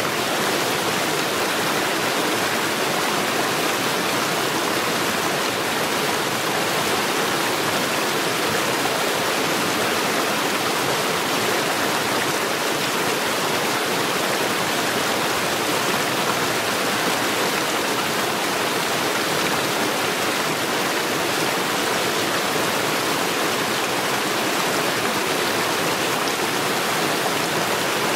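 Mountain stream rushing over stones, a steady, dense sound of running water.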